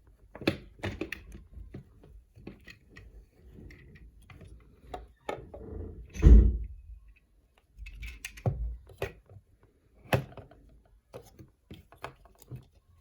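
Hands handling a toy figure and its packaging: irregular clicks, knocks and short rustles of plastic and cardboard, with one loud thump about six seconds in.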